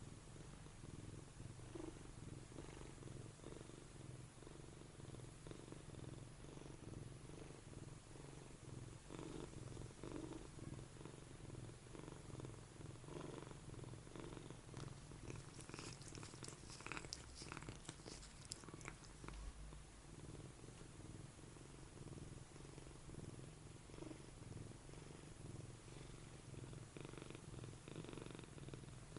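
Oriental Shorthair cat purring steadily, with a stretch of brief rustling and clicks about halfway through.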